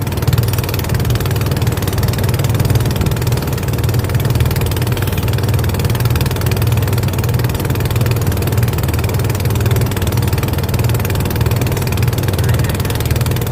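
Boat engine running steadily at a constant speed, a low, even drone.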